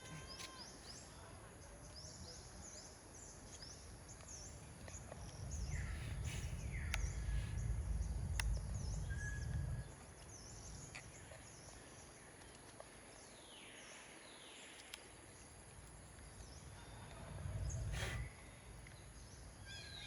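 Outdoor ambience: many short, high, falling chirps throughout, over a steady background hiss. There are two spells of low rumble, one from about six to ten seconds in and a short one near the end.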